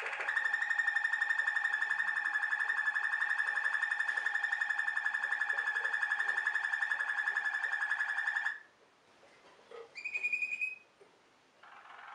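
Waterslager (Malinois) canary singing a long, fast, rolling trill on one steady pitch for about eight seconds. After a short pause comes a brief higher note, and near the end a new rolling phrase begins.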